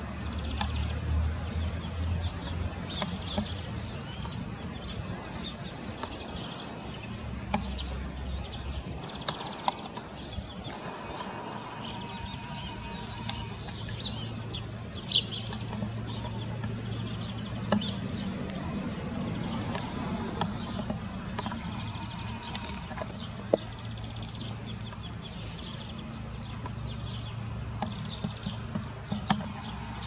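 Birds chirping outdoors: many short, high chirps and whistles scattered throughout, over a steady low hum in the background.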